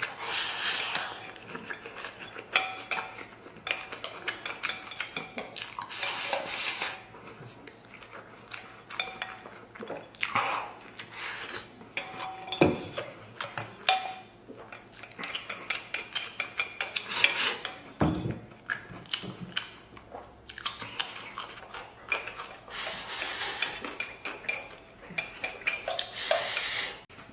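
Chopsticks clicking and scraping against a bowl and plate, with chewing of braised pork intestines between the clicks. The clicks are short and irregular.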